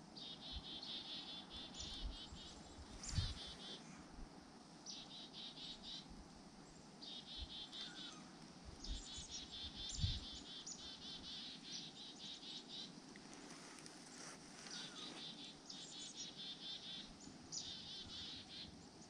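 A small songbird gives repeated rapid high trills, each a second or two long, about eight of them. Two low thumps near 3 and 10 seconds in are the loudest sounds.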